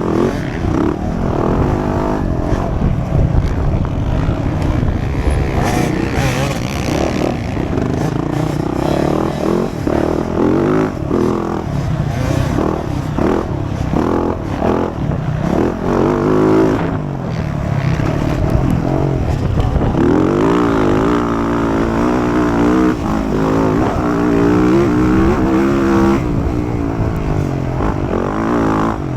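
Motocross dirt bike engine racing, revving hard and repeatedly rising and falling in pitch as it accelerates, shifts and backs off.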